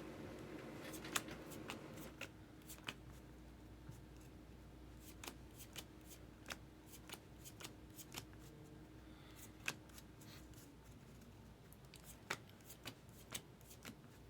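Baseball trading cards being flipped through by hand, each card giving a light, sharp snap of card stock, about one or two a second at an uneven pace.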